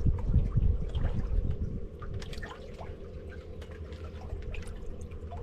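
Water lapping and dripping against a boat's hull, with small scattered splashes. A low rumble is heavy for the first two seconds and then drops away, and a faint steady hum runs underneath.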